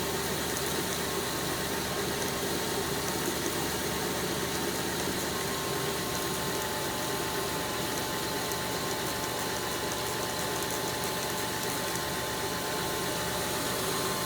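2002 Kia Sedona's engine idling steadily, with the faint growl from the belt-drive side that the owner suspects comes from a pulley, the power steering pump or the serpentine belt parts.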